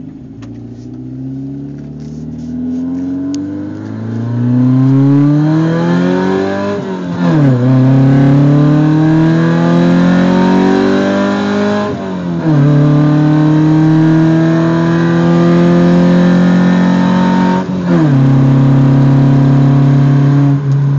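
Honda F22 2.2-litre four-cylinder engine, with short ram intake and headers, accelerating hard at full throttle through the gears. Its pitch climbs, drops at an upshift about 7, 12 and 18 seconds in, then climbs again.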